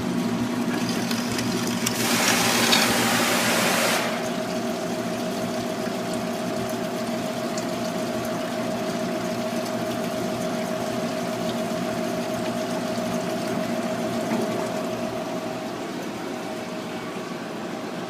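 Amada HFA250W bandsaw running with its carbide-tipped blade through a layered metal workpiece. It gets louder and hissy from about two to four seconds in, then settles to a steady hum with a held whine, easing off a little near the end.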